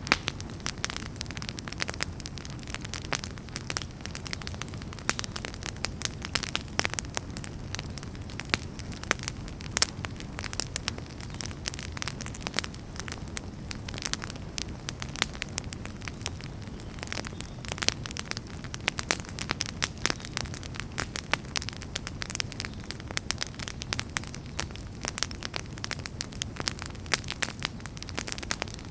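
Wood fire burning with a steady low rumble and dense, irregular crackles and pops of burning firewood.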